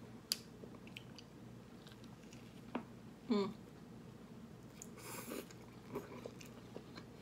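Close-miked chewing of a KFC crispy chicken sandwich, with small wet mouth clicks and a bite into the soft bun and fried fillet a little past halfway. A brief hum of the voice, falling in pitch, comes about halfway through and is the loudest sound.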